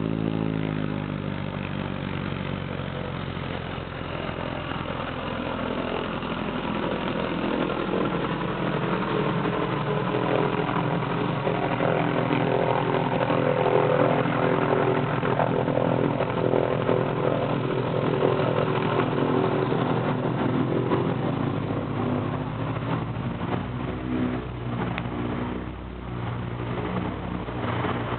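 Engine and propeller of a PZL-104 Wilga light aircraft running steadily. It grows louder toward the middle, and its pitch drifts up and down a few times.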